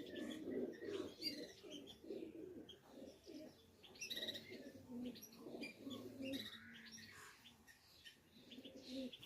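Pigeons cooing, with small birds chirping and twittering over them; the cooing thins out about two-thirds of the way through.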